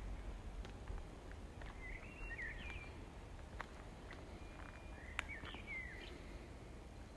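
Small birds chirping in two short bursts of gliding notes, about two seconds in and again about five seconds in, over a low rumble, with a few sharp clicks, the sharpest about five seconds in.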